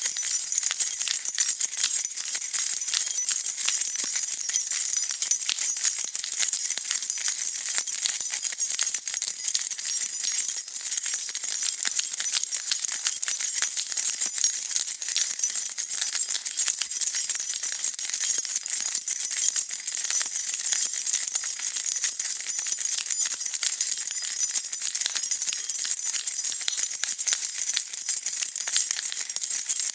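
A bunch of metal keys being shaken and jingled continuously, a dense steady stream of bright clinking and rattling without pauses.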